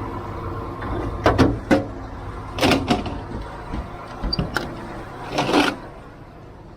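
Heavy truck's diesel engine idling with a steady hum, with several short sharp knocks and clatters over it. The hum eases off near the end.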